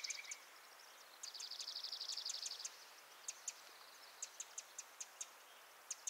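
Faint outdoor ambience of small birds chirping: scattered short, high chirps, with a rapid trill starting about a second in and lasting about a second and a half.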